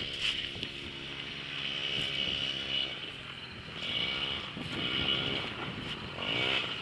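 Dirt bike engine running, revving up and falling back several times as the rider goes.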